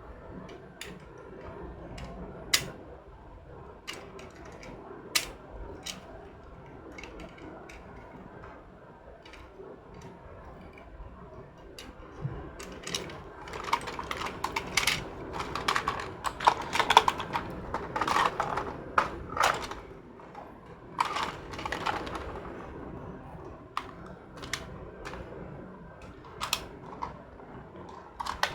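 Light, irregular clicking and clattering of small hard objects being handled. It thickens into a busier clatter about halfway through and then eases off.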